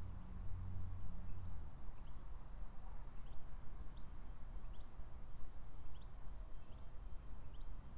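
A small bird calling with short, high, rising chirps, repeated every second or so from about two seconds in, over a steady low rumble of outdoor noise; a low hum fades out in the first two seconds.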